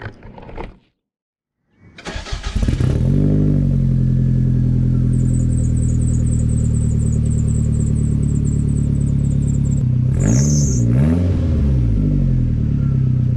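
Toyota Celica All-Trac ST165's turbocharged 3S-GTE four-cylinder starting from cold: it is cranked and catches about two seconds in, flares briefly, then settles into a steady idle, heard at the exhaust tailpipe. A little after ten seconds it is revved twice quickly and drops back to idle.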